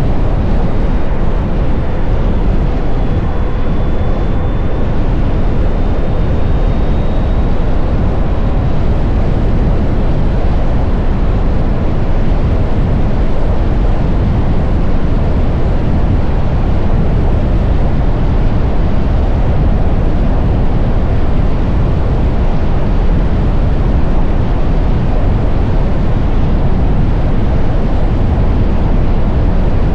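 Steady, loud wind rush buffeting the camera microphone on a moving electric motorcycle, with a faint high whine for a few seconds near the start.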